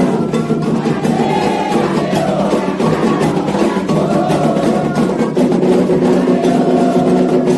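Candomblé ritual music: dense, fast atabaque drumming with a clacking percussion part and singing over it.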